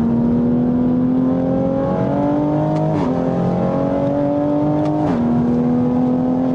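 Interior engine note of a heavily modified, big-turbo 2020 Toyota Supra's turbocharged straight-six under load. The pitch climbs as it accelerates and drops sharply twice, about three and five seconds in, on quick upshifts, each marked by a short crack.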